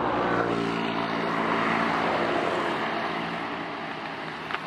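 Tuned drag-race motorcycle engine running at steady high revs on a test run with the smaller CDI ignition fitted, growing louder and then slowly fading as it passes.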